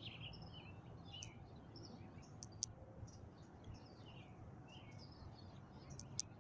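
Faint chirping of songbirds in the distance, many short calls overlapping over a low background hum, with a few sharp clicks.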